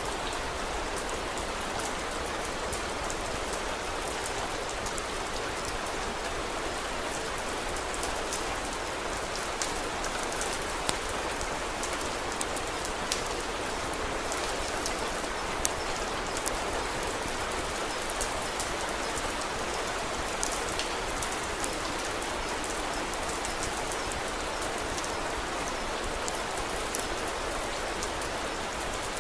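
Steady rain with scattered sharp pops from a crackling wood fire, most of them in the middle stretch.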